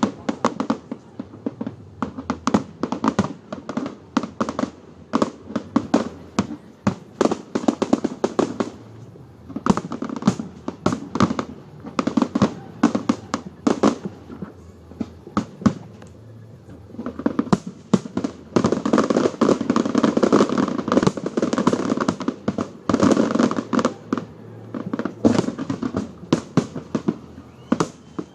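Fireworks display: a rapid series of bangs and crackles going off one after another, thickening into a dense barrage a little past the middle before thinning out again near the end.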